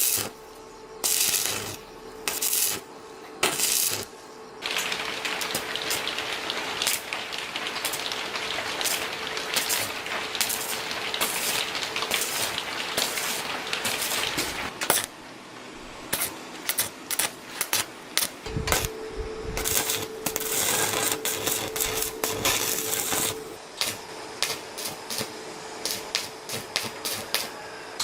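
Metal repair work on a truck axle: a few sharp metal knocks, then a long steady hissing crackle lasting about ten seconds, then a rapid run of clicks and knocks over a faint steady hum.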